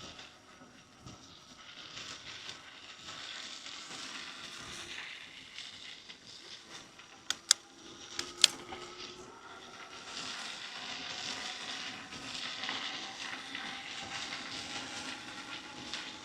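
Riding noise from a moving bicycle: a rough hiss of tyres on an uneven road surface and wind, with a few sharp clicks or knocks near the middle. A faint steady whine builds in the second half.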